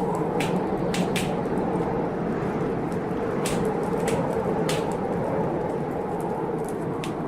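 Wood fire crackling in a fireplace, with sharp irregular pops a second or so apart, over a steady low rush of storm noise.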